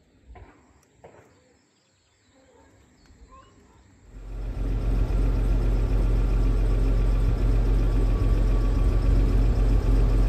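Jaguar 4.2-litre straight-six engine idling steadily, heard from about four seconds in after a couple of faint clicks.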